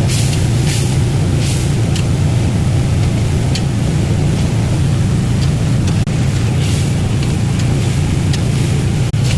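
Chicken chunks frying in hot oil: a steady hiss with brief sharp crackles throughout, over a loud low rumble.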